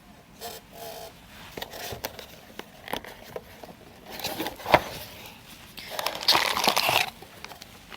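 Cardboard box being opened and plastic packaging bags handled: scattered light clicks and rustles, a sharp click about halfway through, then a burst of plastic crinkling near the end.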